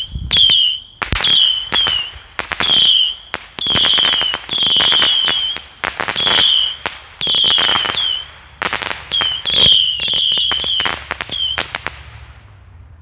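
TNT 100-shot Saturn missile battery firing: a rapid string of shrill whistling missiles, one after another, mixed with sharp pops and crackles. The volleys stop about twelve seconds in.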